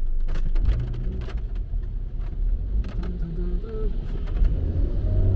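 Road and engine noise inside a moving car's cabin: a steady low rumble with scattered faint ticks.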